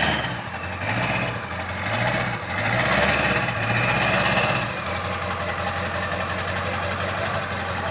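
Pickup truck engine running, its speed rising and falling a few times, then settling to a steady idle for the last few seconds.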